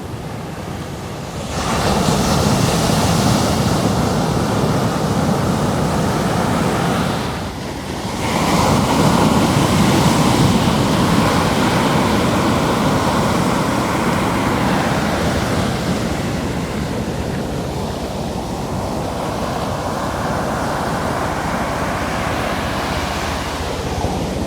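Ocean surf breaking and washing up the shore: a wave surges in about a second and a half in, another about eight seconds in, and its wash then slowly fades.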